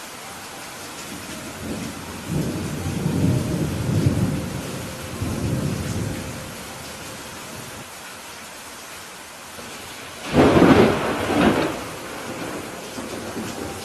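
Steady rain with thunder: a low rumble that swells from about two seconds in and fades by about six seconds, then a louder, sharper thunderclap just past ten seconds that dies away over a second or so.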